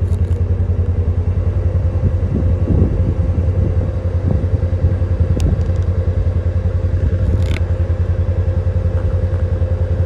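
Polaris Ranger 1000 XP side-by-side's twin-cylinder engine running steadily, with a level whine above the drone. A few seconds in, bumps and scraping are heard.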